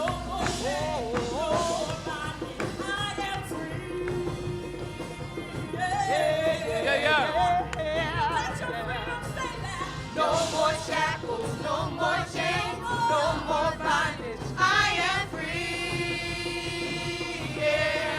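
Live gospel praise music: a singing voice with wavering, sliding runs over a band with a steady bass line.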